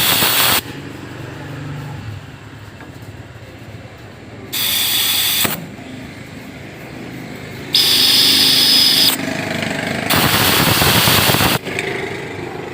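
A workshop tool run in short, loud, hissing bursts of about a second each, four times, with a lower steady hum between the bursts.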